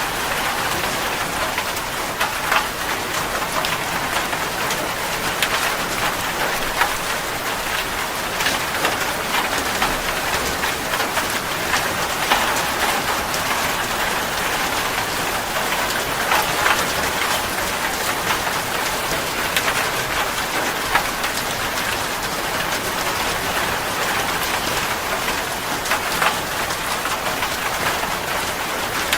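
Steady rain falling: an even, dense hiss with sharper individual drop hits scattered all through it.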